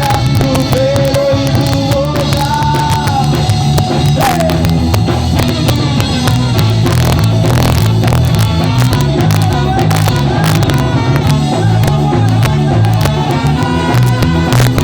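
Live ska band playing loudly: drum kit and a pulsing bass line under a melody line. The recording is rough and not clean.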